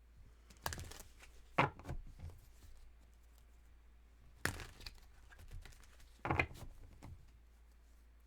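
Tarot cards being handled: a handful of short, faint rustles and flicks, spread over several seconds with quiet gaps between them.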